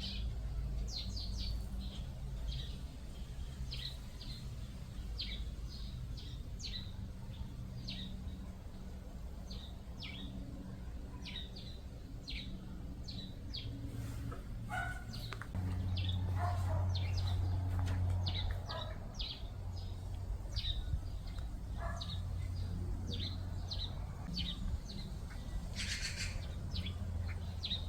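Small birds chirping, with many short, high chirps repeating throughout, over a steady low rumble that swells about two-thirds of the way through.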